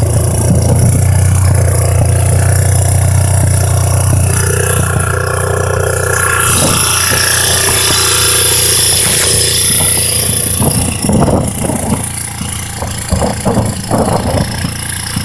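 1984 Honda ATC 200X's single-cylinder four-stroke engine, breathing through a DG aftermarket exhaust, running at a steady idle. About eleven seconds in the engine gets quieter, and a series of short knocks and clatters follows.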